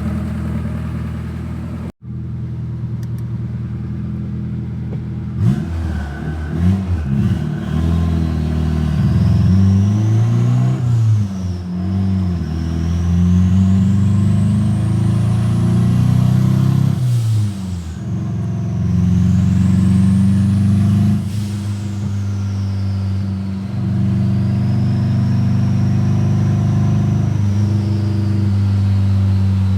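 Turbocharged Honda F23 four-cylinder engine being revved up and down repeatedly, a high whine rising and falling with the revs. The engine is misfiring from a failing ignition coil pack.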